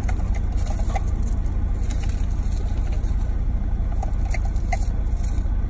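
Car engine idling, a steady low rumble heard from inside the cabin, with a few faint ticks scattered through it.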